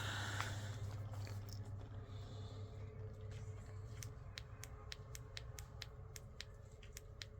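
A steady low hum, with a run of light, evenly spaced clicks, about four a second, starting a little past halfway.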